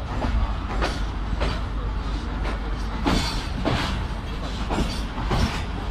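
A train rolling along, heard from on board: a steady low running rumble with the wheels clacking over rail joints in pairs, about three times.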